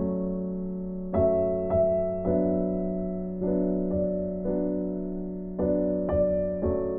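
Soft background piano music: slow chords over a held low note, each struck and left to fade.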